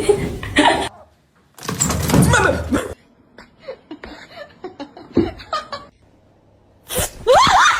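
A person laughing, in short clips cut together with brief silences between them.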